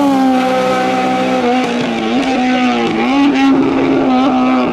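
Race car engine running hard on a hill-climb course, its pitch dipping and climbing again several times as it comes off and back onto the throttle through corners.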